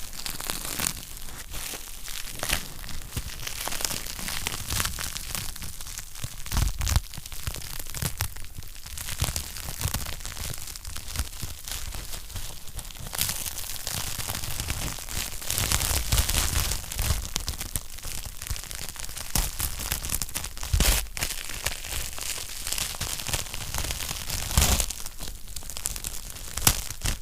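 Wood fire crackling in a fireplace: a dense, irregular stream of small snaps and crackles, with a few louder pops that carry a low thud, about 7, 16, 21 and 25 seconds in.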